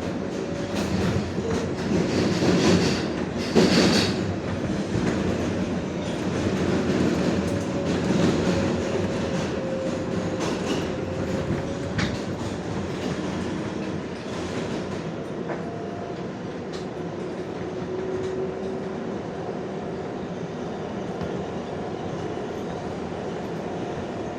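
R142A subway car running at speed: a steady rumble of wheels on rails with clickety-clack over rail joints, loudest a few seconds in, and a faint wavering high tone.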